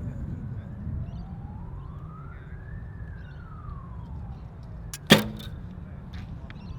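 A recurve bow is shot once about five seconds in: a sharp crack of the string released, with a brief low ring after it. A distant siren wails slowly up and down behind it, with wind rumbling on the microphone.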